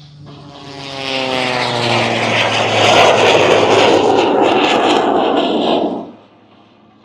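Jet Waco biplane making a low pass, its R-985 radial engine and J85 jet engine running together. The engine tone drops in pitch as it goes by, under a loud rushing jet noise that swells and then cuts off suddenly about six seconds in.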